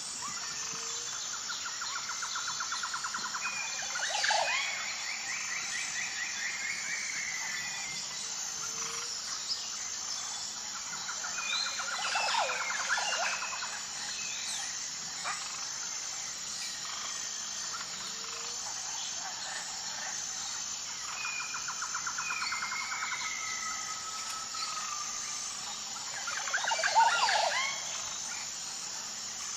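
Wild birds singing outdoors: a fast trill followed by a few slurred whistled notes, repeated about every nine seconds, over a steady high pulsing insect chorus. Near the end comes a louder, quicker burst of call notes.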